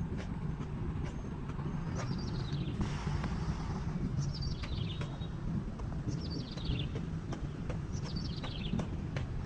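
Heavy rain falling steadily, with scattered sharp drip taps. A bird repeats a short descending trill about every two seconds.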